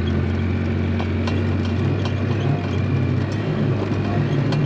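A vehicle engine running steadily, with irregular clicks and clanks over it.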